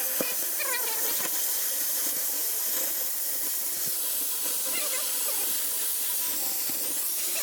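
Cutting torch hissing steadily as it burns through the welded metal legs of a grain bin.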